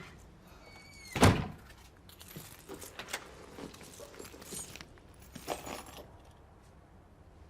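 A single loud thump about a second in, followed by lighter knocks and rustling.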